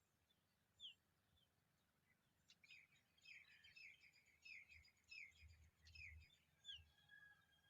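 Familiar chat chick calling to be fed with short, high, downward-sliding chirps: a single chirp, then a quick run of about ten at roughly two a second, ending in a thin held whistle.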